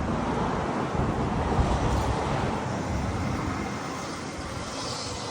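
Steady, loud rumbling noise of wind buffeting the microphone over traffic noise, easing off slightly toward the end.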